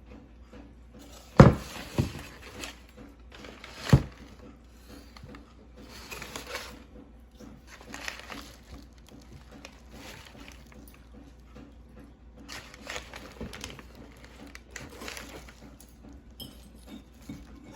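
Handling noises: a sharp knock about a second and a half in, another at four seconds, with lighter rubbing and clatter between.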